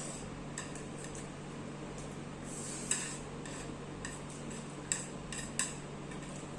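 Cutlery and dishes clicking and clinking a few times while eating, the sharpest clicks about three seconds in and near the five-second mark, over a steady low hum.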